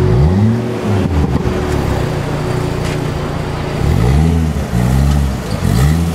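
Dodge Viper SRT-10's V10 engine revved in short blips, each a quick rise and fall in pitch: one near the start, then three in quick succession from about four seconds in.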